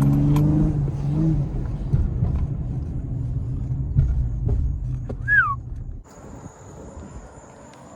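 Car engine and road rumble while driving, with a short falling chirp about five seconds in. The sound then cuts off suddenly to a much quieter background carrying a steady high thin whine.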